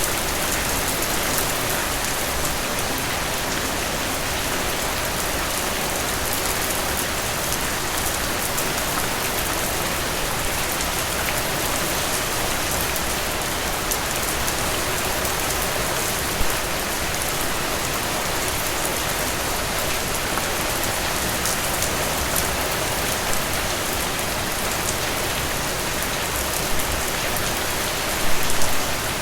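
Steady rain falling through trees: an even, continuous hiss with fine individual drops ticking throughout. There are a few louder drips, one midway and a small cluster near the end.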